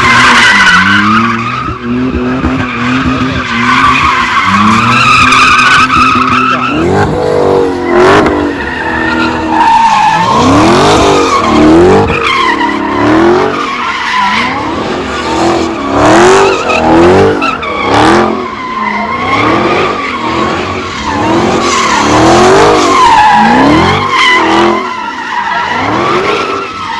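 A V8 car doing donuts: tyres squealing over the engine held at high revs. From about seven seconds in, the engine revs rise and fall roughly once a second as the throttle is pumped.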